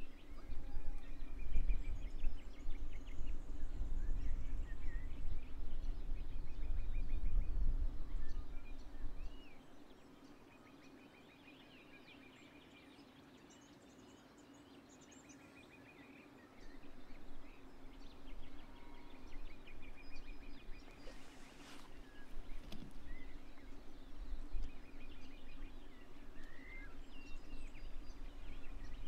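Birds calling, with repeated short trills and chirps, over a low rumble that drops away about nine seconds in and returns about sixteen seconds in; a faint steady low hum runs underneath.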